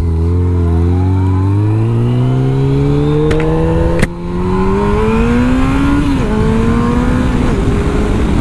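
2003 Yamaha FJR1300's inline-four engine accelerating hard, its pitch climbing steadily. There is a brief break about four seconds in, and the pitch drops about six and seven and a half seconds in as the bike shifts up.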